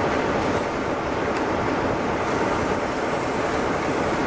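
First Great Western High Speed Train's coaches rolling slowly past, a steady rumble of wheels on the rails.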